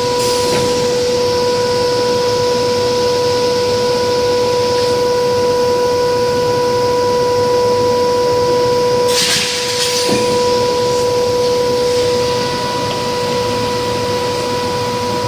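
CNC glass cutting machine running with a steady, pitched hum over a hiss of air. A louder rush of hiss comes about nine seconds in.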